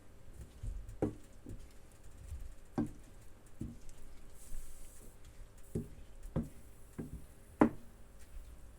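Cooking utensil knocking against a pan while stirring seasoned spinach: about eight irregular taps and knocks, the loudest near the end.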